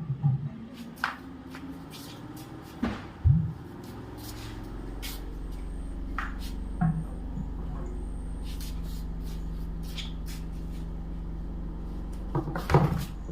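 Several knocks and clattering clicks, the loudest about three seconds in, then a steady low mechanical hum, like an engine or motor, that sets in about four seconds in and keeps running.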